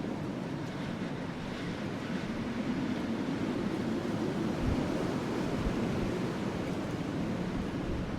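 Steady wind rushing over a burning wood fire, an even low hiss with a couple of soft low thumps midway.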